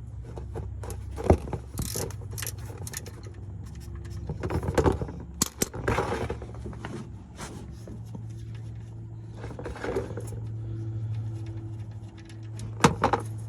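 Metal hand tools clinking and scraping, a socket wrench being worked on the oil pan drain bolt, in scattered sharp clicks over a steady low hum.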